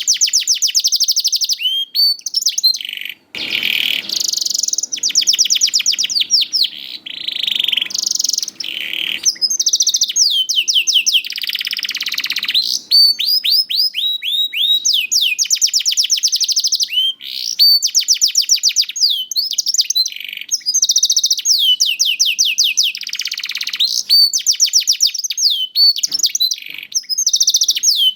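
Young domestic canary singing continuously: fast trills of rapidly repeated, sweeping high notes, one rolling phrase after another with only brief breaks. This is the kind of song used as a lure to set other canaries singing.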